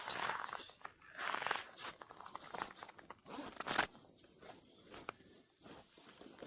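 Irregular crunching of snow and ice, loudest about three and a half seconds in and fading over the last two seconds.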